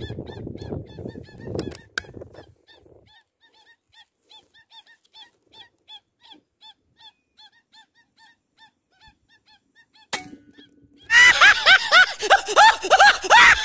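Whistling ducks calling: a run of short, arched, repeated whistles, faint at first and suddenly loud from about eleven seconds in. A rustle comes near the start and a single sharp click about ten seconds in.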